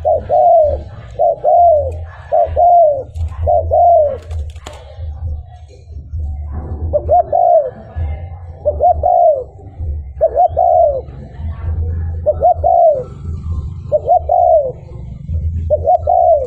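Spotted dove cooing over and over, each coo a short note that rises and falls. A run of coos is broken by a pause of about two seconds near the middle, all over a steady low hum.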